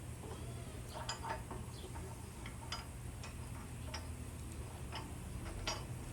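Light metallic clicks and taps at an uneven pace as metal parts are handled and tried in place, over a steady low hum.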